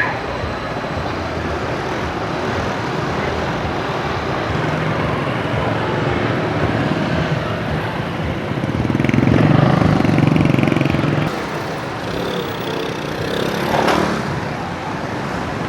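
Street traffic with motorbikes running past. One vehicle's engine grows louder about halfway through and then fades, and a short sharp sound comes near the end.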